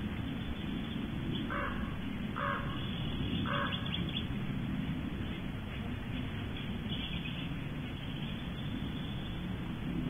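Three short, harsh bird calls about a second apart, over a steady low rumble.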